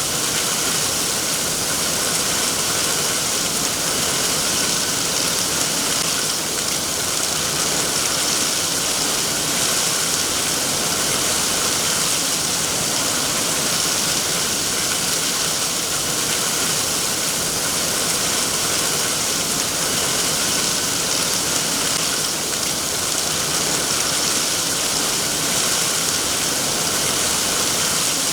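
Steady rainfall, an even hiss of rain with no breaks or distinct drops standing out.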